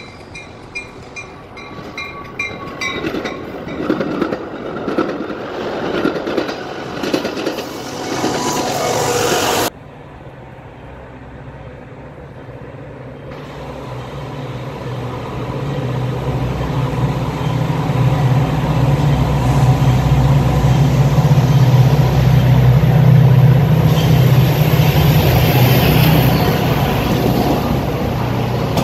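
Metra commuter train approaching and passing close by: a low, steady rumble that swells over several seconds and stays loud as the cars roll past. Before it, about the first ten seconds hold separate rail noise with irregular clicks and ringing tones, cut off abruptly.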